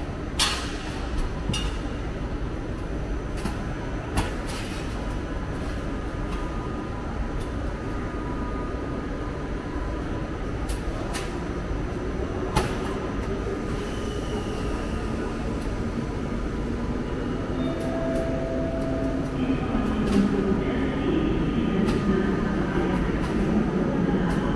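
A train running in a railway station, a steady rumble with a few sharp clicks, growing louder over the last few seconds as its low hum builds.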